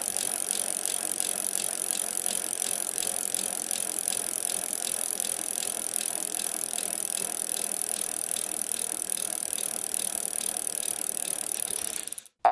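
Bicycle in motion: a rapid, steady ticking that cuts off abruptly near the end.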